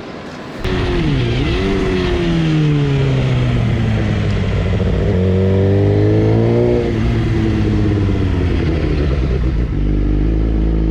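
Motorcycle engine accelerating, its note dipping about a second in, then climbing and holding, climbing again and dropping back about seven seconds in, as with shifts or a roll-off of the throttle; a steadier low rumble follows near the end.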